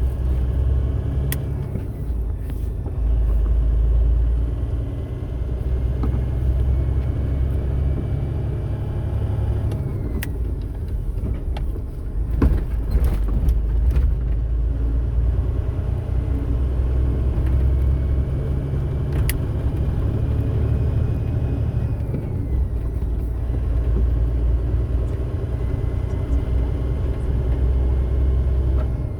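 Car cabin with steady engine and road rumble, and a faint high whine that climbs slowly in pitch with engine speed and then drops, twice. The owner finds the whine goes away when the device in the cigarette lighter socket is unplugged, marking it as electrical noise from that accessory.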